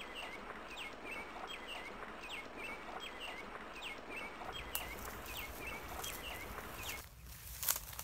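Small bird chirping over and over, short high chirps about two a second, over a steady outdoor hiss; it cuts off suddenly near the end.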